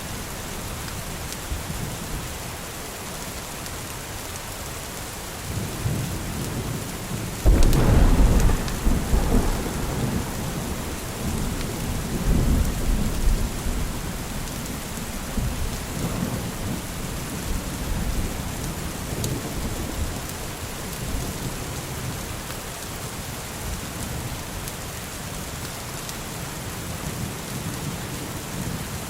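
Thunderstorm: steady rain with thunder. About seven and a half seconds in, a sudden loud clap rolls into low rumbling that lasts several seconds, and weaker rumbles follow a few seconds later.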